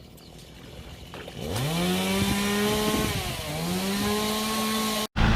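Small two-stroke power-tool engine revving up about a second and a half in, holding a high steady note, dropping briefly and revving up again. Near the end it cuts off abruptly and a lower, steady engine hum takes over.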